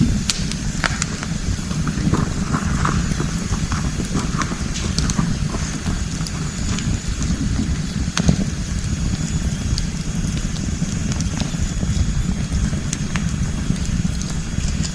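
Wood campfire burning, crackling with scattered sharp pops over a steady low rumble; one louder pop about eight seconds in.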